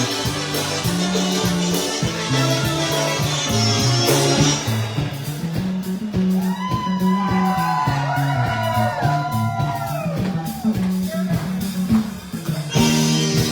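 A live polka band playing over a steady bass line. From about six seconds in, a lead instrument plays a run of sliding, bending notes for several seconds.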